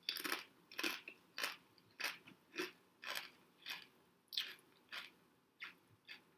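A mouthful of kettle-cooked BBQ potato chips being chewed: a crisp crunch about every half second, around ten in all, getting softer toward the end as the chip breaks down.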